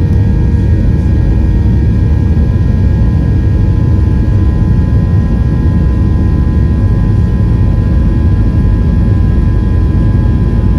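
Boeing 737 jet engines heard inside the passenger cabin: a loud, steady rumble with a few faint, even whining tones over it.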